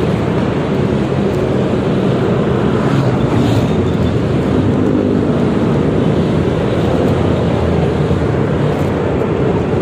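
Yamaha XMAX 300 scooter ridden in traffic, its engine running steadily under a constant rumble of road and wind noise on the rider's microphone.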